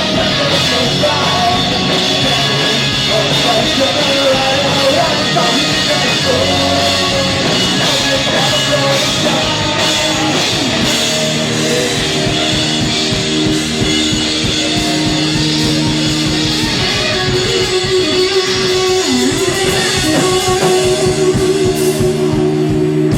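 Live rock band playing: amplified guitars over drum kit, with a voice singing in parts. The playing is loud and steady, with a long held note in the second half.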